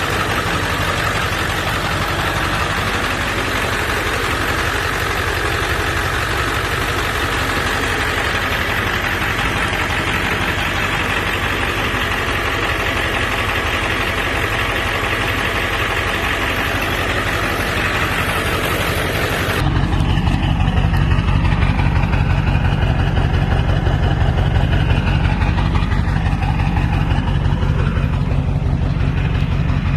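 Ford 7.3-litre Power Stroke V8 turbodiesel idling steadily, which the owner calls healthy. About twenty seconds in the sound changes abruptly, turning deeper and a little louder with less hiss.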